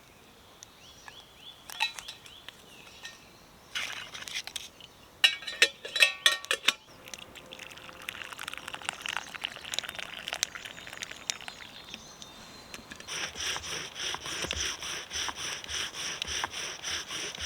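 Bow drill fire-lighting: a few knocks and clatters as the set is taken up, then the wooden spindle grinding and squeaking in the hearth board with each stroke of the bow, growing louder and settling into a steady back-and-forth about twice a second towards the end, as the spindle drills towards an ember.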